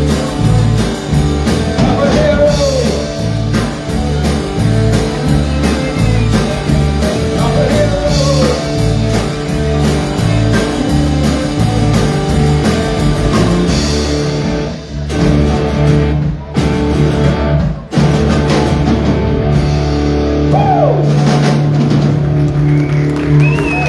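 Live rock band with electric guitar, bass and drum kit playing an instrumental stretch with guitar bends. It has a few short stop-and-hit breaks in the middle and ends on a long held final chord.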